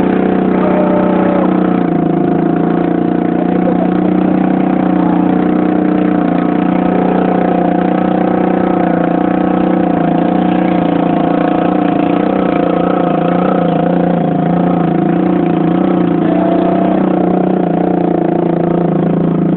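A car engine running steadily, a constant hum that neither rises nor falls.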